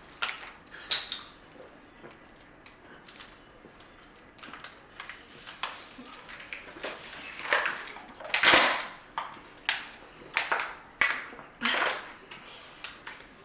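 Two people drinking water as fast as they can: a run of short, sharp clicks and swallowing noises, with a louder noisy burst about eight and a half seconds in.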